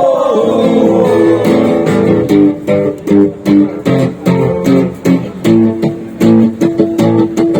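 Guitar strummed in a steady rhythm, playing chords between sung verses, with the last sung note fading out just at the start.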